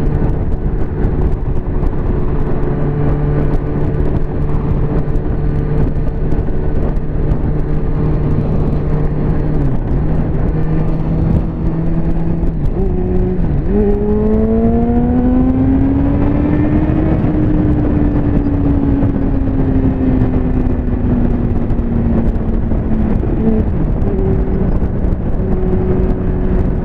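Liter-class motorcycle engine running at road speed under a constant rush of wind noise. The engine note holds steady, dips briefly twice, then rises sharply about halfway through as the bike accelerates, and slowly falls again as it eases off.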